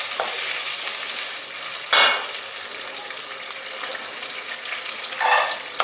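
Whole onion pieces, garlic, cashews and spices sizzling in oil in a kadai, the sizzle slowly dying down as the newly added water heats. Two brief louder bursts come about two seconds in and near the end.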